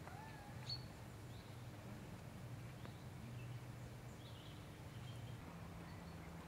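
Faint outdoor garden ambience: scattered small bird chirps and short whistled calls, the clearest about a second in, over a low steady hum.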